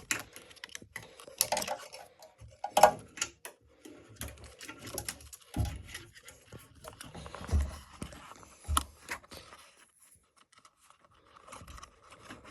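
Irregular clicks, rattles and a few dull thumps of hands working plastic zip ties around a chop saw, fastening them to hold its head down.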